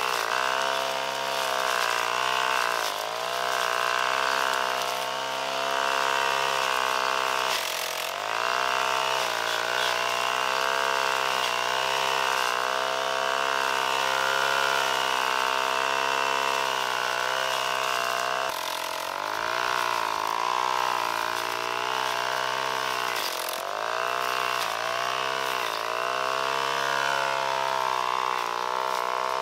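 A small motor or engine running steadily, its pitch dipping briefly about three times, as if it slows under load.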